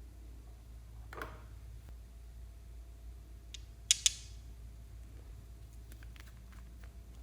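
Slime being handled, with a short squelch about a second in and a pair of sharp clicks just past the middle, the loudest sounds, then a few faint clicks, over a low steady hum.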